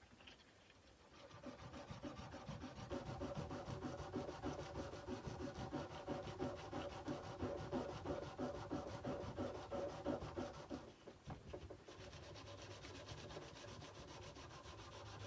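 Sandpaper rubbed by hand along a kukri blade in quick, regular back-and-forth strokes, with a short pause a little before the end and softer strokes after it.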